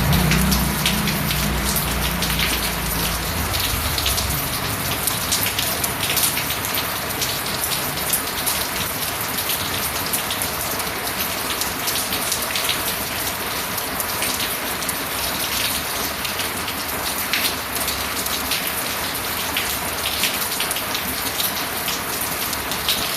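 Steady rain falling, an even hiss with many separate drops ticking through it. A low rumble fades out over the first few seconds.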